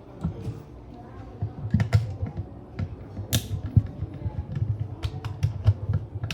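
Irregular clicks and light knocks from handling the plastic parts of a portable Bluetooth speaker being taken apart, with a short scrape about three seconds in.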